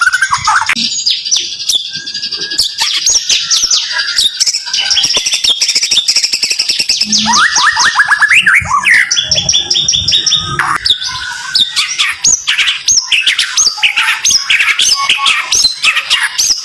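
White-rumped shama (murai batu) singing a dense, rapid stream of rattling trills and sharp rising whistled notes, the tight 'tembakan' bursts of song.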